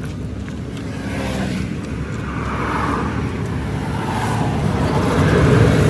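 Road traffic: a motor vehicle's engine and tyres approaching, growing steadily louder toward the end.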